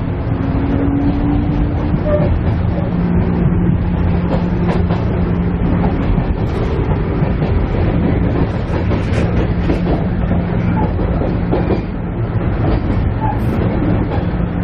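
Interior running sound of a KiHa E130 diesel railcar on the move: a steady engine drone with a short rising whine near the start, and irregular clicks and knocks from the wheels on the track.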